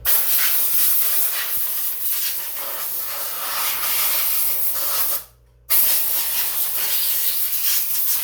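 Compressed-air blow gun blasting loose dirt off the stump grinder, a loud steady hiss that cuts off abruptly a little past five seconds in and starts again half a second later.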